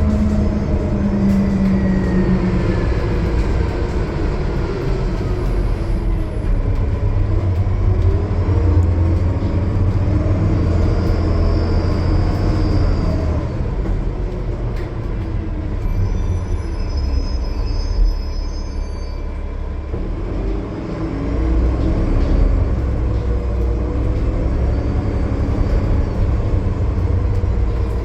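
Transit bus with a Cummins ISL9 diesel engine and Voith D864.6 automatic transmission running under way: a steady low drone with whining tones that rise and fall in pitch.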